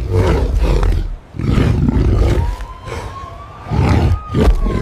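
Tiger roaring, several loud roars in a row with short breaks between them.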